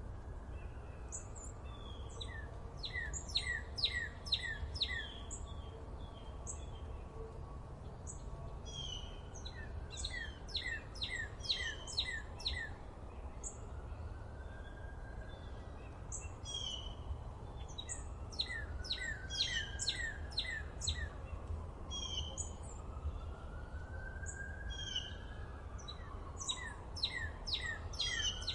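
Forest birdsong: one bird repeats a quick run of six to eight high, falling chirps about every eight seconds, with scattered calls from other birds between bouts. A low steady rumble runs underneath.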